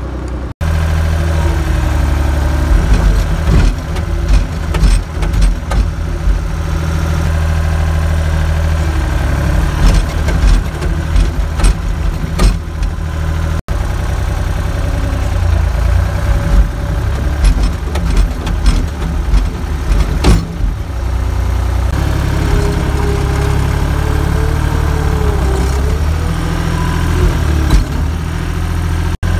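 Skid steer engine running steadily while loading a manure spreader, with repeated sharp knocks and clanks over the engine hum.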